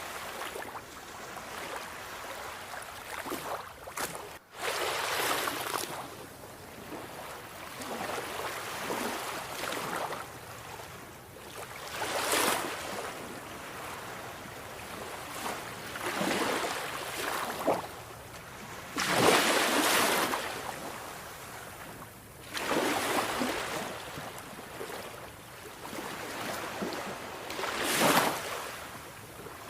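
Sea waves breaking and washing ashore, swelling louder every few seconds and then easing back, with a momentary drop-out a little over four seconds in.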